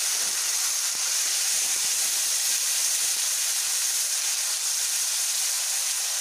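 Crushed onion and garlic sizzling in hot mustard oil in a wok with whole spices: a steady frying hiss.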